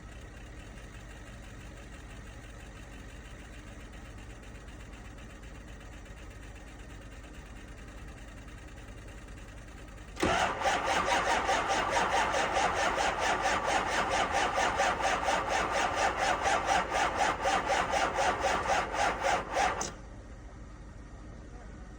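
Ford 6.0 Powerstroke V8 turbo diesel being cranked by its starter in severe cold: an evenly pulsing crank starts about halfway through, runs for about ten seconds and cuts off abruptly without the engine catching, a cold no-start.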